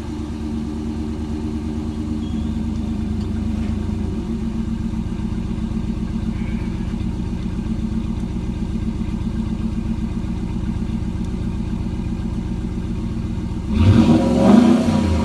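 Dodge Ram pickup engine idling through a Black Widow 300 exhaust with no resonators and an upgraded Y-pipe, giving a steady low rumble. Near the end the engine is blipped once, rising and then falling back.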